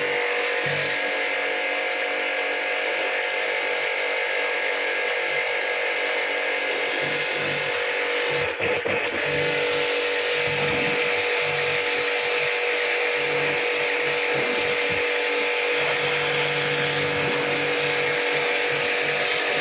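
Electric motor-driven machine running steadily, with a constant whine and a strong hiss. It drops out briefly about halfway through, then resumes.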